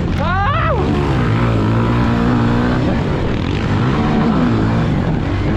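Pit bike engine revving hard and easing off through the gears as it races around a dirt track. Its pitch rises and falls over and over, with a sharp rising rev near the start.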